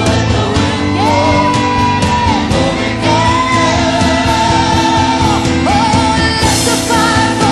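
Worship band music with a singer holding long, high sustained notes over drums and full band accompaniment.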